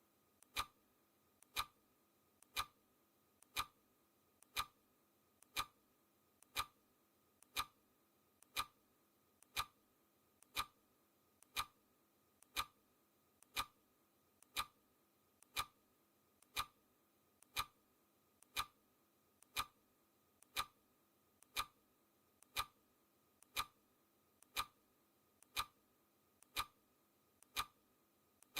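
Clock ticking sound effect: one sharp tick every second, steady and even, each with a fainter click just before it.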